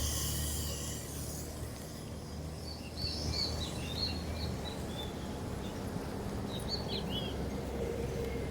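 A passing car fades away at the start, then a few short bird chirps come in two clusters, about three seconds in and again near seven seconds, over a low steady street rumble.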